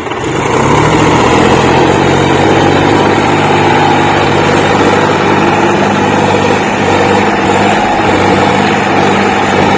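Tractor diesel engine revving up in the first second, then running loud and steady.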